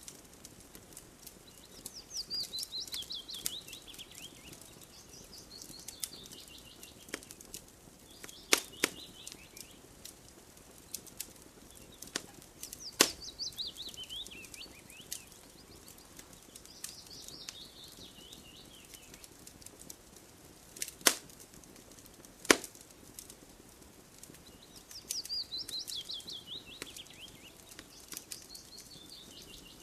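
Wood fire crackling with a few sharp pops over a soft hiss, while a songbird repeatedly sings a high trill of quick notes that falls in pitch over about two seconds.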